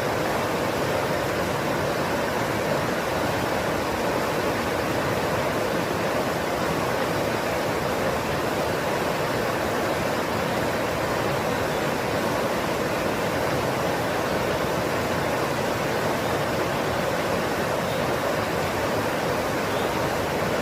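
Steady rushing water, an even, unbroken roar with no distinct events.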